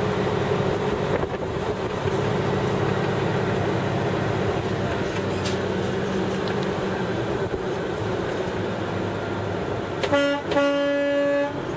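Truck engine running steadily, then a truck horn sounding twice near the end: a short blast and then a longer one of about a second.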